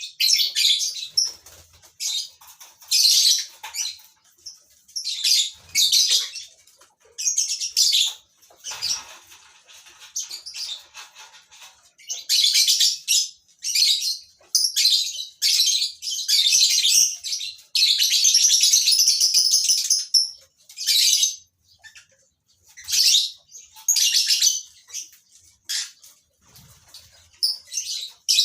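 Colony of lovebirds calling in shrill, high chattering bursts one after another, with a longer unbroken stretch of calling about two-thirds of the way through.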